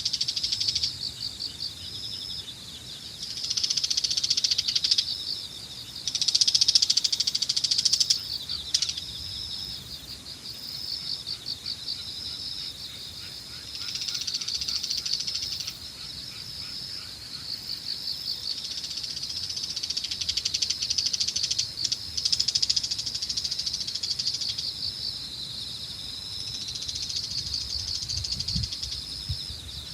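Evening chorus of autumn insects chirping: rapid, evenly pulsed trills at a steady high pitch, overlapping and swelling and fading in waves. Light wind rumbles on the microphone near the end.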